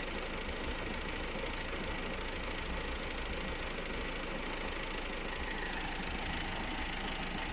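Opel Astra J's B16DTH 1.6 CDTI diesel engine idling steadily, with a thin steady high whine over it. These are the strange noises the owner reports from an engine with only 55,000 km.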